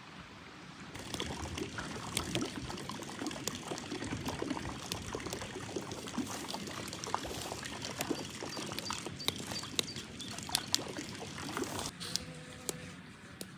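Water pouring and splashing, with many small drips and splashes; it starts suddenly about a second in and stops near the end.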